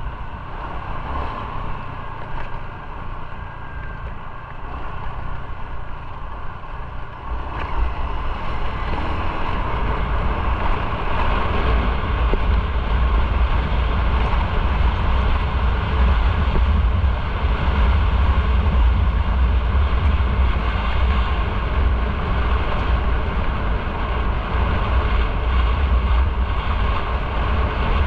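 A motorcycle ride: the engine runs under steady wind noise on the microphone, and both get louder about seven seconds in.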